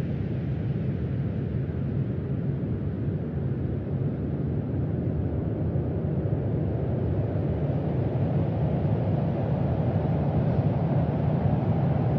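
Low, steady rumbling noise with no clear tone or clicks, growing slightly louder after about eight seconds: a NASA microphone recording of sound on Mars.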